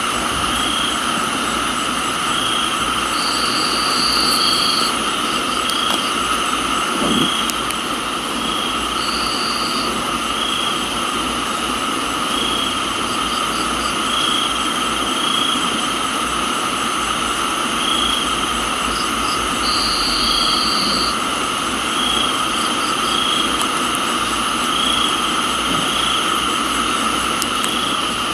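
Crickets and other insects chirring in a steady tropical night chorus: several constant high tones, a chirp repeating every second or two, and an occasional short trill, over an even hiss of rain.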